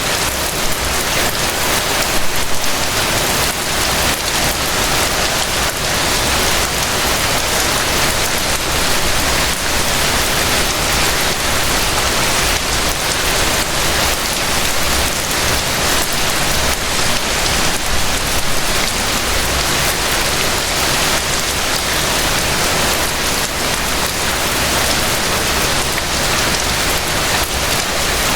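Steady rain: a dense, even patter of many small drops that keeps up without a break.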